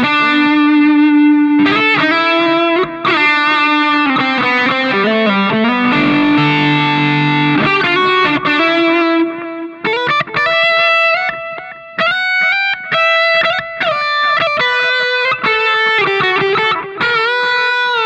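Electric guitar played through a Valeton Dapper combo pedal with its distortion and delay both switched on, the delay time set by tap tempo. It plays a sustained, distorted single-note lead in quick phrases, with a few bends.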